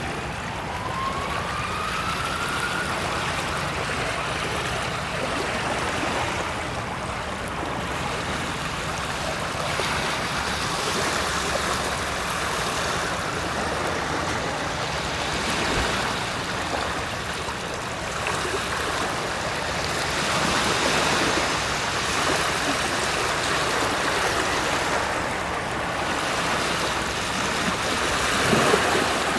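Sea waves washing in, a steady rush that swells and eases every few seconds. A faint rising whistle-like tone sounds in the first few seconds.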